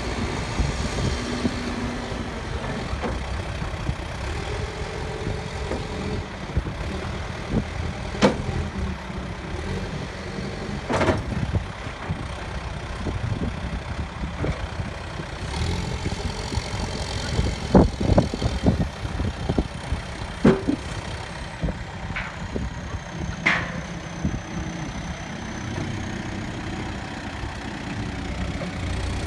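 Case 580 backhoe loader's engine running steadily, with a number of sharp knocks or clanks scattered through, the loudest cluster about two-thirds of the way in.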